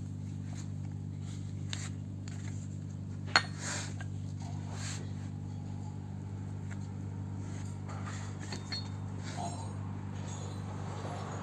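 Metal tools and transmission parts clinking and clicking now and then over a steady low hum, with one sharp metallic knock about three seconds in.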